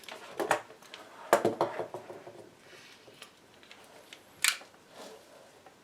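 Small metal parts and hand tools clicking and clattering on a workbench during radio reassembly, in a series of sharp clicks, the loudest about a second and a half in and again near the end.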